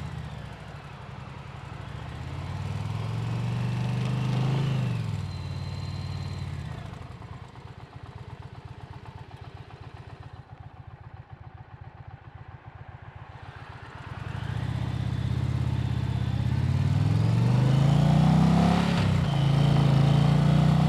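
Motorcycle engine pulling away and accelerating, its pitch rising through the gears. About halfway through it settles to a quieter, low, pulsing run, then picks up and rises in pitch again near the end.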